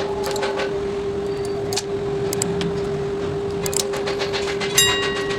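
A steady hum with one constant mid-pitched tone over background noise, with a few short sharp clicks about two seconds in and near the end.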